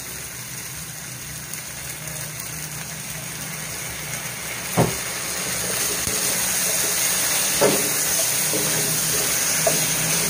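Chicken feet in soy and oyster sauce sizzling in a stainless steel wok, the hiss growing louder. A wooden spatula knocks on the pan twice, then stirs near the end.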